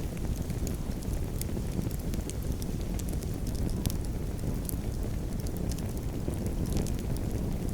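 Campfire crackling: irregular small sharp pops and snaps over a steady low rumble of the burning fire and wind.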